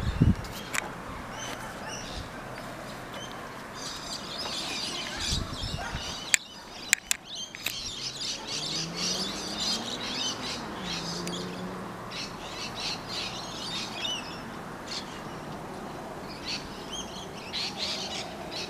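Small birds chirping and twittering, many short high calls in quick runs, with a few sharp clicks about six to seven seconds in.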